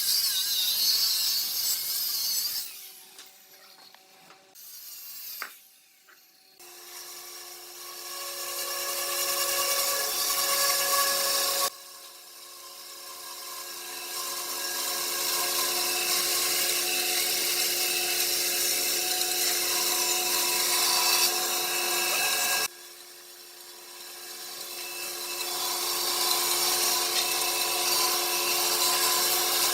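Electric power tool running with a steady motor whine while cutting or abrading wood, the noise of the wood work rising over several seconds at a time. The sound drops abruptly twice, about twelve and twenty-three seconds in. It is much quieter for a few seconds near the start.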